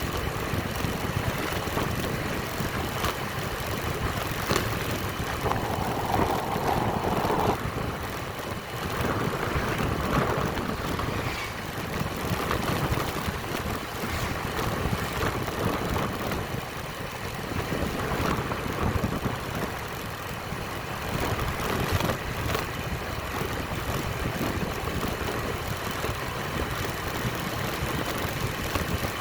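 Motorcycle running steadily on the move, engine and road noise.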